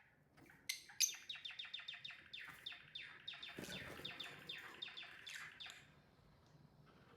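Lovebirds chirping: a rapid run of short, shrill, downward-sliding chirps, about five a second, starting just under a second in and lasting about five seconds.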